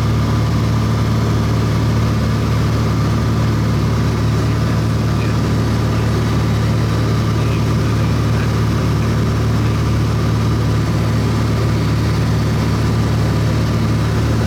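Airplane engine running steadily in flight, heard from inside the cabin as an even, unchanging drone with a low hum.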